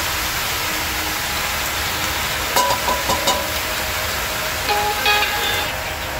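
Steady hiss of heavy rain together with chicken and onion frying in oil in a cast-iron Dutch oven.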